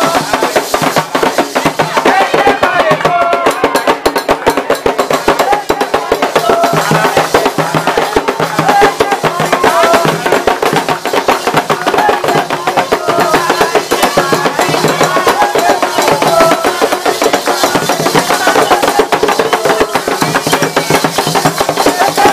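Candomblé ritual music: hand drums beat a fast, dense rhythm under group singing, a chant for Xangô.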